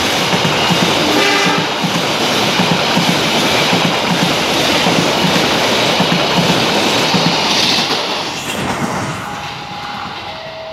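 Passenger train coaches passing close by at speed: a steady rush of noise with the wheels clattering over the rail joints. A brief horn note sounds about a second in. The noise fades from about eight seconds in as the last coach goes by.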